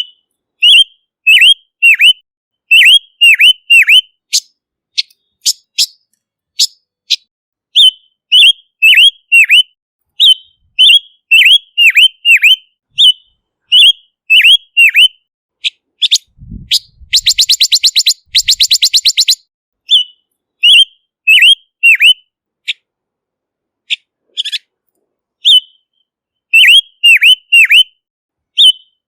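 Male silver-eared mesia (Leiothrix argentauris) calling: short, clear, downward-slurred whistled notes in quick groups of two to four, repeated again and again, with a fast dry rattle of about ten notes a second around the middle. This is the call used as a lure to draw in wild mesias.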